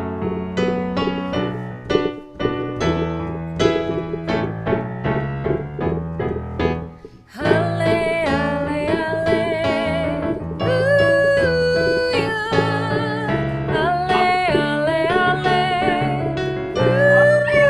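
Piano playing solo, then about seven seconds in a sustained melody with vibrato comes in over the piano accompaniment.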